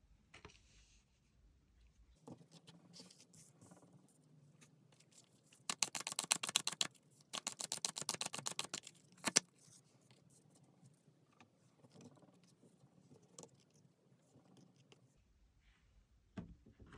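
Tarot cards being handled and shuffled: soft rustles and taps, with two loud runs of rapid flicking about six and eight seconds in and a sharp snap at the end of the second.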